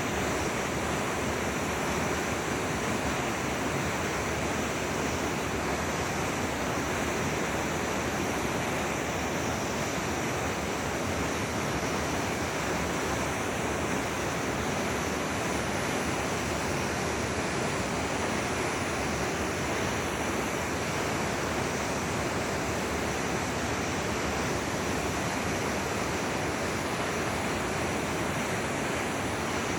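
A forest river flowing: a steady, even water noise with no change.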